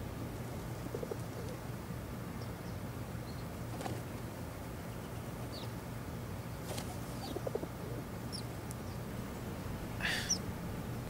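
Quiet room tone with a steady low hum, over which small birds give faint, scattered short chirps; one call about ten seconds in is a little louder and longer.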